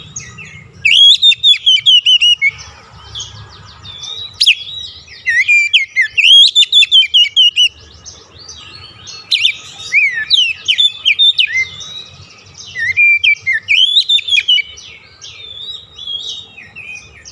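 Oriental magpie-robin (kacer) song: loud bursts of rapid, varied whistled phrases about every four seconds, with quieter calls between them.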